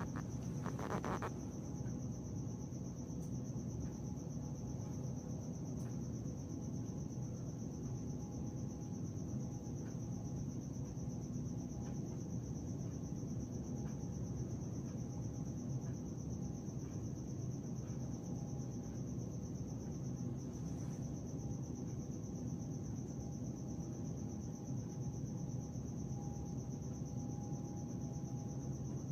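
Crickets trilling steadily at night, one continuous high tone, over a low background hum, with a brief rustle about a second in.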